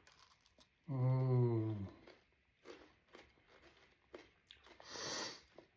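A person chewing a bite of Dubai-style chocolate bar with a crispy knafeh (kataifi) filling: a hummed "mmm" about a second in, then a run of small crisp crunching clicks, and a breathy rush near the end.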